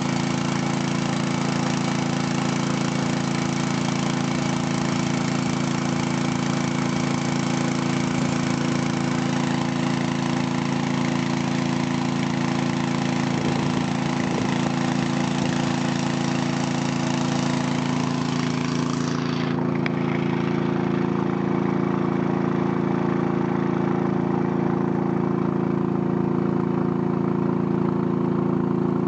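Two-cylinder diesel engine of a drilling rig's hydraulic power pack running steadily. About twenty seconds in, a higher hiss over the engine note drops away suddenly, and the engine runs on.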